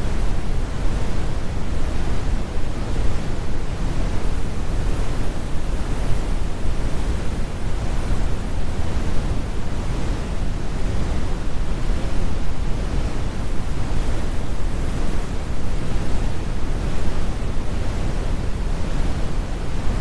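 Steady brown noise: an even, unbroken rumble of synthetic noise, strongest in the low end with the high frequencies rolled off.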